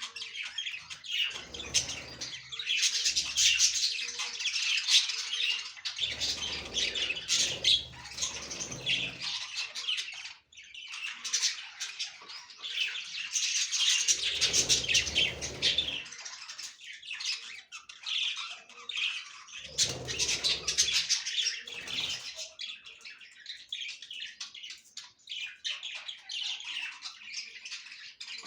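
Budgerigars chattering and squawking continuously, a dense stream of high chirps that swells and eases.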